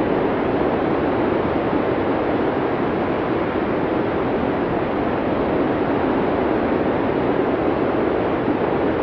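Blizzard wind blowing as a steady, muffled rush, even in level with no distinct gusts or other events.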